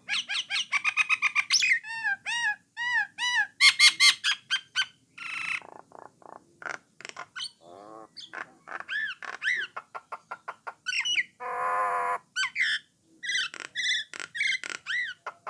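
Common myna singing a varied, rambling song of fast repeated whistled notes, clicks and chatter, with one longer harsh, grating call about three-quarters of the way through.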